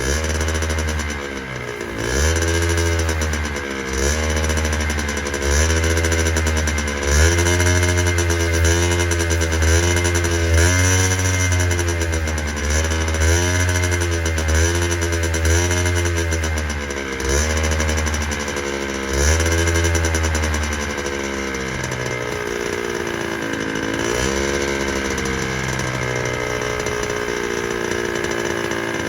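Honda NSR50's 49 cc two-stroke single-cylinder engine running on a faulty carburetor, its revs rising and falling again and again, roughly every second and a half to two seconds, before it settles into a lower, steadier but still wavering run about two-thirds of the way in. The uneven running is put down to the bad carburetor.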